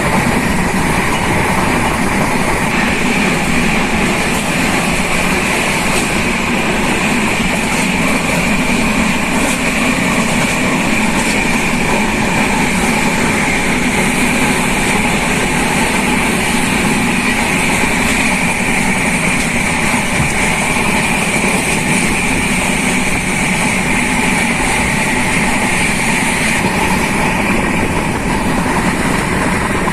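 Express passenger train running at speed, heard from on board: a steady rumble of wheels on the rails with a steady high whine over it that comes in a few seconds in and eases near the end.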